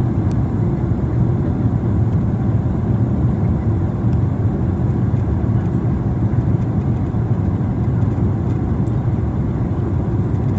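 Steady low rumble of a Boeing 767-300ER on final approach: its twin jet engines and airflow noise, loud and unchanging, with a faint hiss above it.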